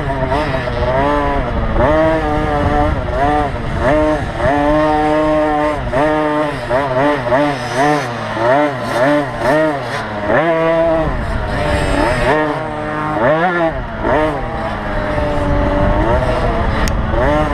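Small two-stroke motocross bike engines, the KTM SX50 class, revving hard and backing off over and over. The pitch climbs and drops with every throttle change, over a steady low rumble.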